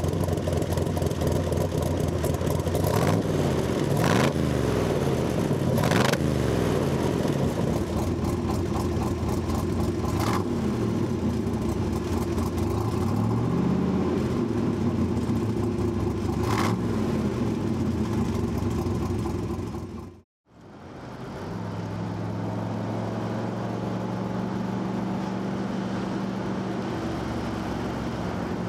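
1966 Corvette's 427 big-block V8 running through its side pipes, its pitch rising and falling as it is revved and driven. About twenty seconds in, the sound cuts out for a moment and comes back as a steadier, slightly quieter engine note at cruising speed.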